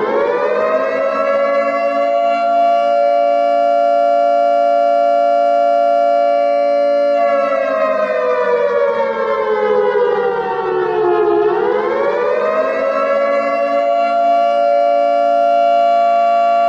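Modern air-raid siren sounding a steady held tone of two close pitches. Roughly halfway through, its pitch sinks for a few seconds, then winds back up and holds steady again.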